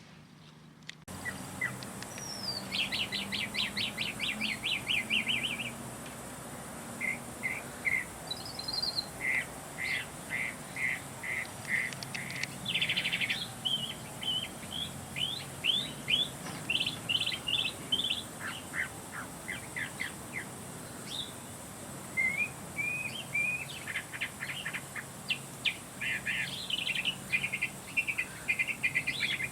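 Songbird singing: quick trills and runs of short chirps in varied, repeated phrases, starting about a second in.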